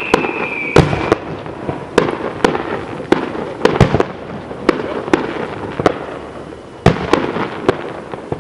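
Aerial fireworks going off: a rapid string of sharp bangs over a crackling haze, with heavy booms about a second in, near four seconds and near seven seconds. A high whistle, falling slightly in pitch, fades out about a second in.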